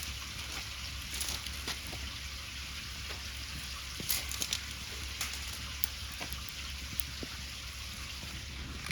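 Wood bonfire burning with a steady hiss and scattered small crackles and pops, a few sharper pops about a second in and again around four seconds in.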